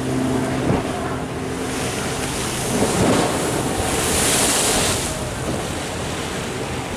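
Ocean waves washing against the sea wall, with a hissing surge of water about four seconds in, and wind buffeting the microphone. A steady low hum sounds under it for the first couple of seconds.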